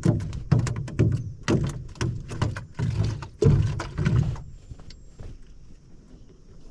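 Irregular knocks and thumps against a fiberglass canoe's hull, loud for about the first four seconds, while a small largemouth bass on the line is worked out from under the canoe. After that it goes much quieter, with a few faint high chirps.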